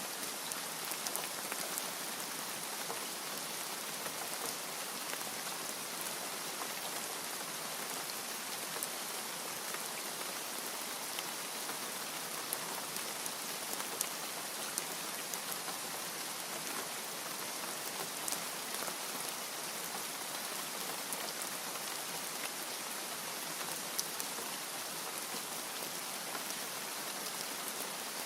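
Steady rain falling on a surface, a dense even hiss with scattered sharp drop ticks.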